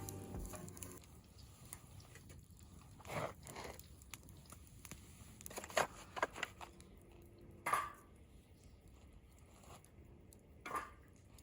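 Scattered rustling and crinkling with a few sharp clicks, the louder rustles about three, eight and eleven seconds in.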